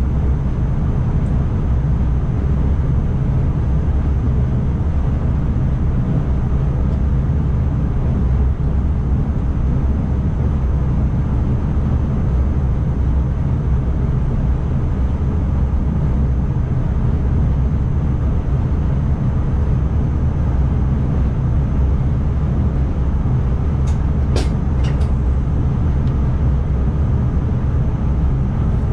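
Steady low rumble of an NS ICMm (Koploper) electric multiple unit running along the track, heard from inside the driver's cab, with a few short sharp clicks near the end.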